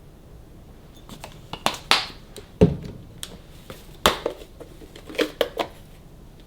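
Hands handling food and containers in a kitchen: an irregular run of light clicks and knocks with some rustling, the loudest a dull knock about two and a half seconds in.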